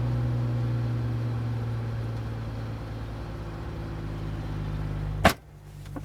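Mercedes-AMG CLS 53's turbocharged 3.0-litre inline-six idling after start-up in Sport Plus, its exhaust a steady low hum heard from inside the cabin. A single sharp click sounds about five seconds in.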